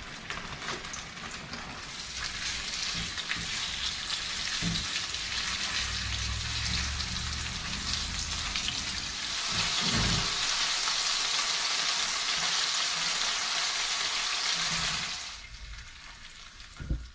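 Cornstarch-dusted chicken thigh pieces sizzling as they brown in a cast iron skillet, a steady frying hiss that grows louder about halfway through and falls away about two seconds before the end. A few low knocks sound along the way.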